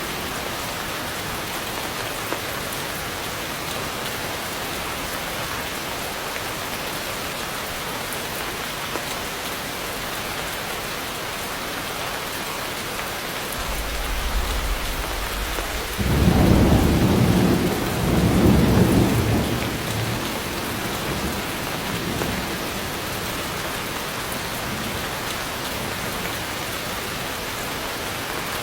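Heavy rain falling steadily. About halfway through, a low rumble of thunder builds into a loud roll in two swells lasting several seconds, then fades back under the rain.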